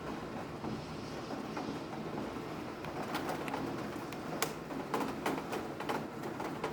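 Steady rain with individual drops ticking sharply and irregularly on a hard surface.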